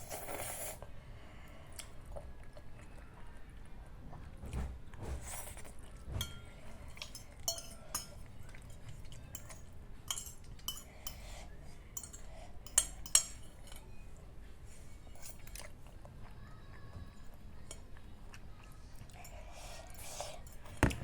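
Person eating instant carbonara noodles close to the microphone: chewing, with a utensil clinking against the bowl now and then. Two sharper clicks a little past the middle are the loudest sounds.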